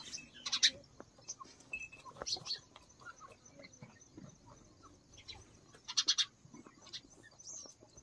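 Short, high bird chirps, scattered and separate, the loudest cluster about six seconds in.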